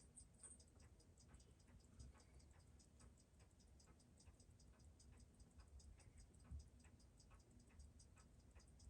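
Faint, rapid, even ticking of a Seiko 6139 automatic chronograph movement being checked for timing, about six ticks a second.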